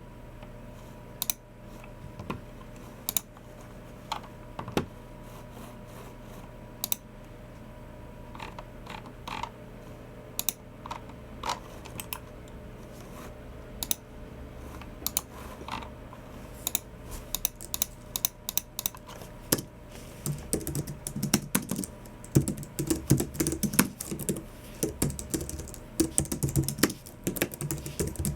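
Keystrokes on a Logitech MX Keys Mini low-profile scissor-switch keyboard. Scattered single clicks for the first half, then fast continuous typing from a little past halfway.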